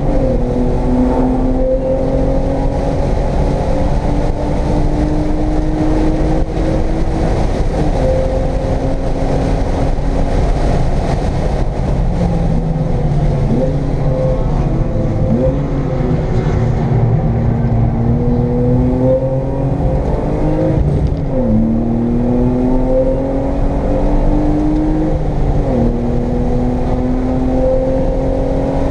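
Cabin sound of a 1995 BMW M3's straight-six engine under hard acceleration on track: the revs climb steadily, then fall back at each of several gearchanges, over steady wind and tyre noise.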